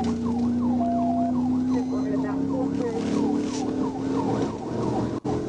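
Police car siren on a rapid yelp, about three sweeps a second, over a steady low drone from the pursuing cruiser. The siren briefly cuts out near the end.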